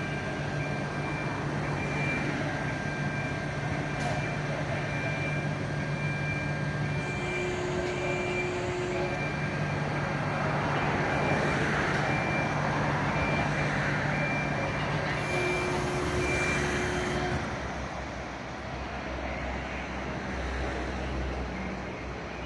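Fire vehicle engine running, with a repeating warning beep about once a second that stops about seventeen seconds in.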